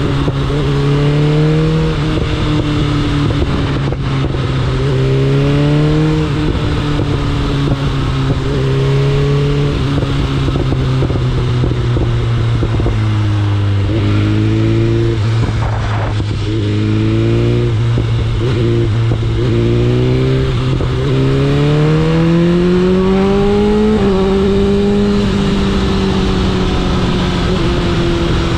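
BMW S1000RR's inline-four engine running on the move, its pitch repeatedly climbing and dropping with throttle and gear changes. It dips lower through the middle, then climbs higher about three quarters of the way in before easing off.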